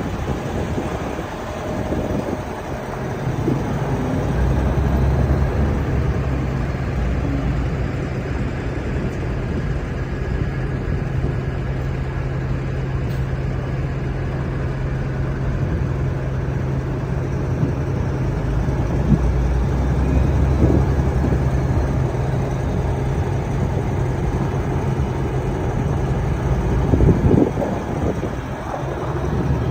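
Kenworth grain truck's diesel engine idling steadily, with a couple of brief thumps near the end.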